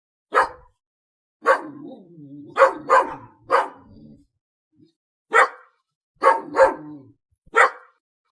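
A dog barking, about nine separate barks in irregular groups, with short gaps between them.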